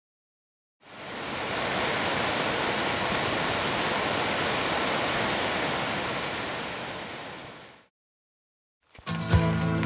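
Steady rushing of white water from the cascades of Tahquamenon Falls, fading in about a second in and fading out near the end.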